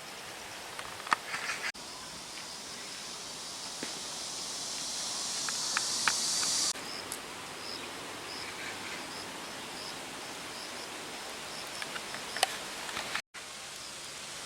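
Outdoor ambience with insects. A high, steady insect buzz builds and then cuts off abruptly about halfway through. After that, short high chirps repeat about twice a second, with a few light clicks and rustles.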